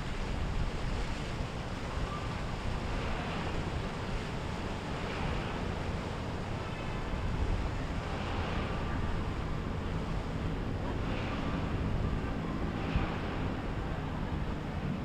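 Wind buffeting the microphone over waves washing in the inlet, with a boat engine's low drone joining in the second half.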